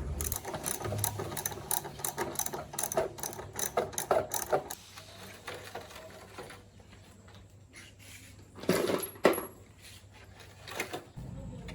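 Rapid metallic clicking and rattling of hand tools at work on a motorbike for the first four seconds or so, then quieter handling and a louder clatter of two knocks about nine seconds in.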